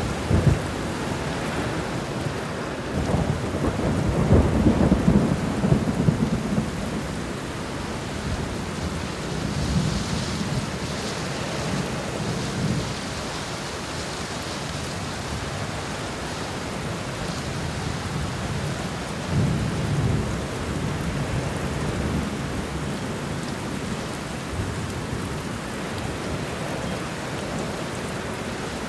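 Thunderstorm: steady rain with rolling thunder rumbling several times, loudest from about four to seven seconds in, with softer rumbles around ten and twenty seconds in.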